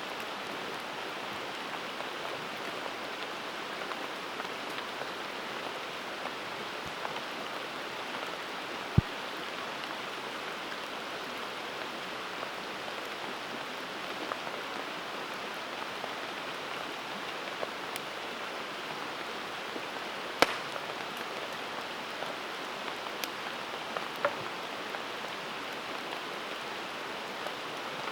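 Campfire burning: a steady hiss of the burning wood with a few sharp pops and cracks, the loudest about 9 and 20 seconds in.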